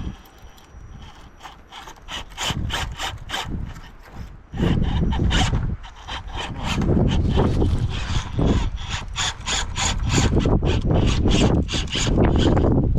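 Rock crawler working over rock: a rapid series of sharp clicks and creaks, about three to four a second, with the engine rumbling under load, heavily about four and a half seconds in and again from about seven seconds on.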